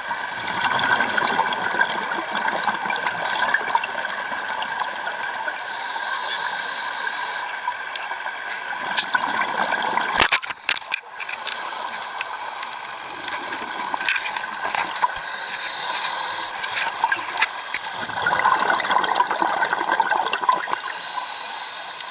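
Water trickling and gurgling steadily, with scattered small splashes and clicks.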